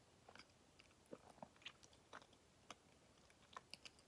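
Faint chewing of a Kamome no Tamago, a soft cake sweet, with scattered small mouth clicks.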